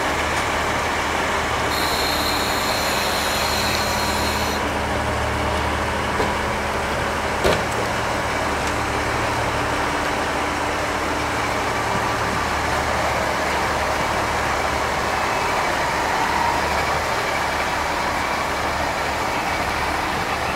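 Diesel railcar engines idling at a station stop, a steady low rumble. A high-pitched tone sounds for a couple of seconds about two seconds in, and a single sharp knock comes about seven seconds in.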